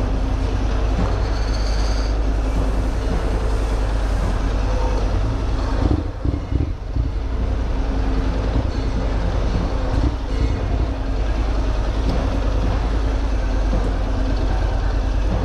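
Honda NC750X motorcycle's parallel-twin engine running steadily at low speed in slow traffic, with a short uneven dip in its sound about six seconds in.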